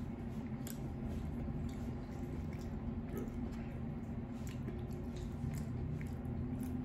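Close-miked chewing and wet mouth sounds of someone eating, with scattered small clicks, over a steady low hum.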